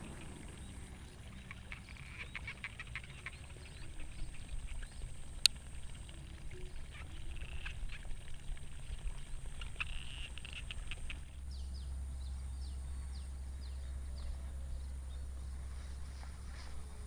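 Open rice-paddy ambience: a steady low wind rumble with short runs of rapid clicking calls, and one sharp click about five and a half seconds in. About eleven seconds in the background changes abruptly and the low rumble becomes louder and steadier.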